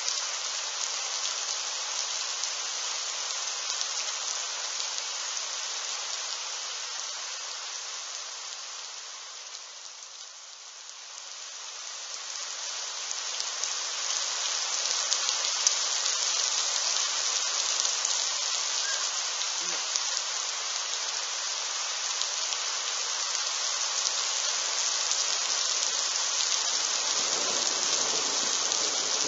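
Steady rain falling, easing for a few seconds about a third of the way in and then coming down harder. Near the end a low rumble of thunder sets in, from lightning about 2 km away.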